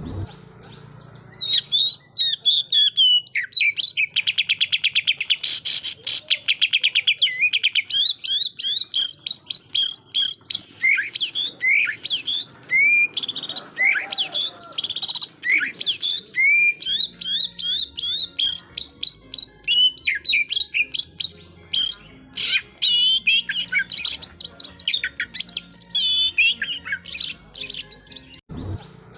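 Oriental magpie-robin (kacer) singing a fast, varied run of sharp whistles and chirps in the rapid 'tembakan' style, with a buzzing rattle about four seconds in. It is a loud, full song of the kind used to provoke rival males.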